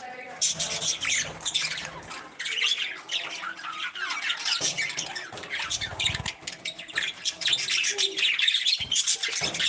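A flock of parrots chirping and squawking, many short calls overlapping in quick succession.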